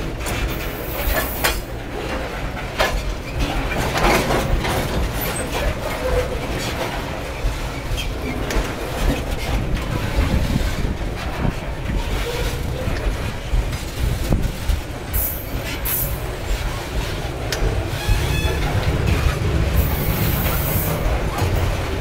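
Freight train of covered hopper wagons rolling past close by: a steady rumble of steel wheels on the rails, with repeated clacks as the wheels cross rail joints and a few short hisses.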